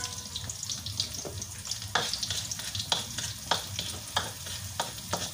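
Chopped garlic, onion, ginger and star anise sizzling in annatto oil in a wok, with a spatula scraping and knocking against the pan about seven times as it stirs.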